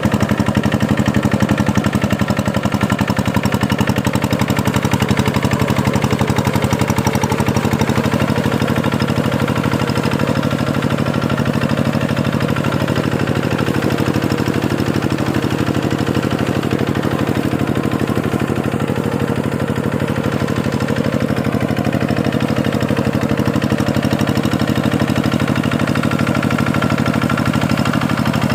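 Tractor diesel engine running steadily at a constant speed, with a fast, even firing beat.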